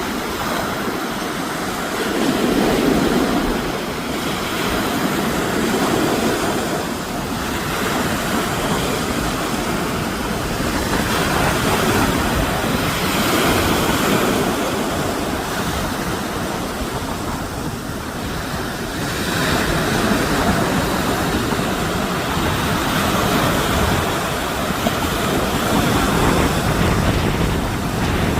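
Hurricane-force wind gusting, a loud rushing roar that swells and eases every few seconds, with the wind buffeting the microphone.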